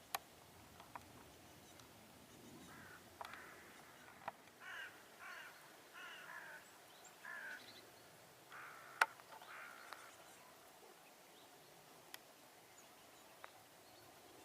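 A bird giving a faint series of about eight short, harsh calls, spaced irregularly between about three and ten seconds in. A few sharp clicks are scattered through, the loudest about nine seconds in.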